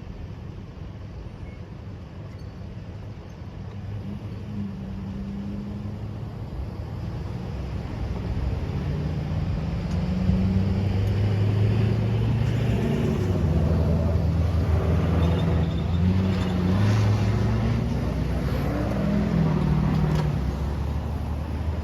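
A heavy engine rumbling, growing louder about halfway through, its pitch shifting up and down in steps.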